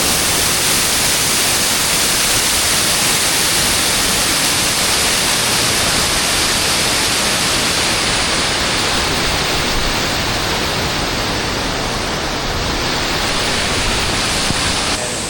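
Waterfall rushing up close: a loud, steady, even wash of falling water, a little quieter near the end.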